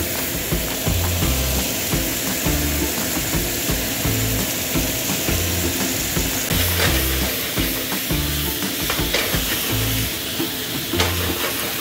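Pork mince and sauce sizzling and frying in a hot nonstick pan, stirred with a wooden spoon, with sliced asparagus stir-fried in it partway through, under background music.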